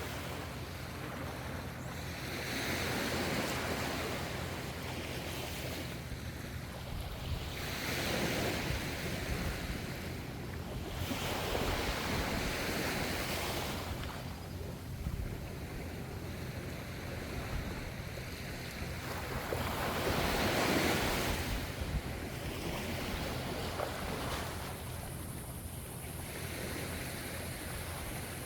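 Sea waves washing in and drawing back, a rushing surf that swells and fades every few seconds, with several larger surges.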